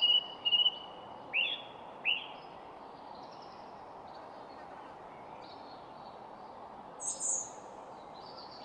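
Wild songbirds calling: a few clear whistled notes and quick falling notes in the first two seconds, fainter chirps after, and a sharp high call about seven seconds in, over a steady background hiss.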